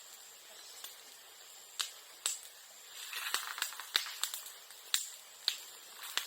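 Bonfire of bamboo and bamboo grass crackling, with sharp pops like small firecrackers scattered through and a denser run of crackling in the middle.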